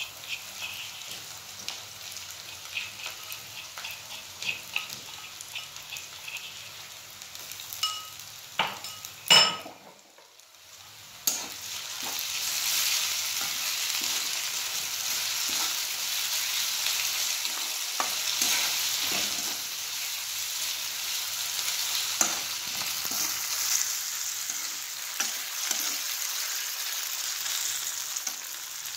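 Sliced onions and ginger-garlic paste frying in oil in an iron kadai, stirred and scraped with a steel spatula, with a loud clank of the spatula on the pan about nine seconds in. After a short dip about ten seconds in, the sizzle comes back much louder and holds steady under the scraping.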